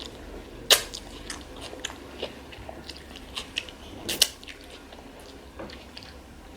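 Close-up chewing of a veggie burger: irregular wet mouth clicks and crackles, with two louder sharp clicks, one about a second in and another past the four-second mark.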